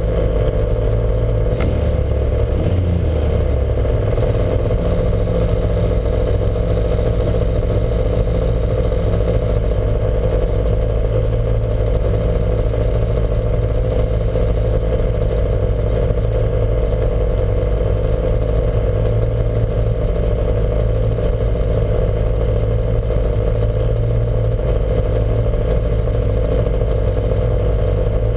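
Lancia Montecarlo's engine running loud and steady under load, its pitch holding nearly constant, mixed with clattering mechanical and road noise.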